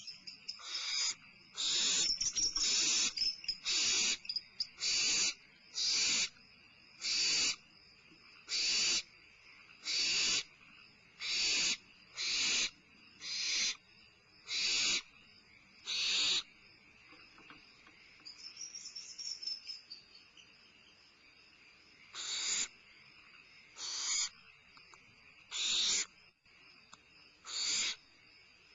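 Barn owl owlets making harsh hissing screech calls, the food-begging 'snore' of young barn owls. Each is about half a second long and they come roughly once a second, break off for several seconds about two-thirds of the way in, then return more slowly.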